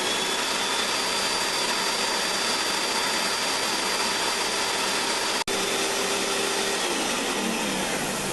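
Bissell ProHeat carpet shampooer running: a steady motor whine over rushing air, with its pump now driven by a piece of bicycle inner tube in place of the broken pump belt. The sound cuts out for an instant about five and a half seconds in, and near the end the pitch shifts and the level begins to fall.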